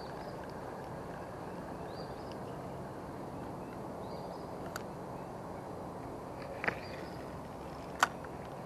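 Steady outdoor background with a bird repeating a short rising chirp about every two seconds. Two sharp clicks from handling the spinning reel and rod come near the end, the louder one about eight seconds in.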